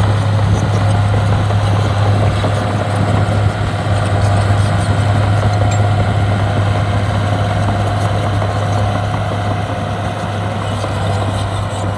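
Heavy diesel equipment engine running steadily, with a constant deep hum and a fainter steady whine above it.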